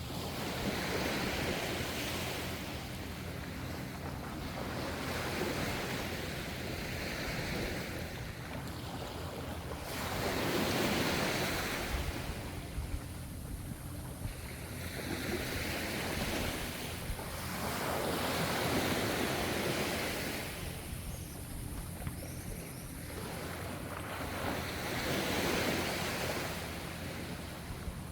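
Gentle ocean waves breaking and washing in, the surf swelling and easing every four to six seconds.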